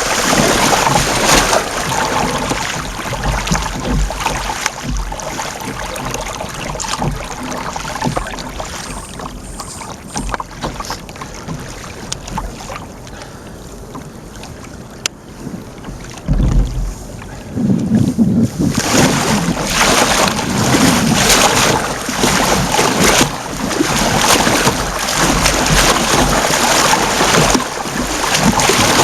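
Water splashing and sloshing around an ocean kayak being paddled, with wind buffeting the microphone. It quietens through the middle and turns loud again about two-thirds of the way in.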